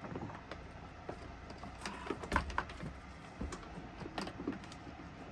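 Irregular light clicks and knocks of engine-bay parts being handled and fitted by hand while the intake is put back together.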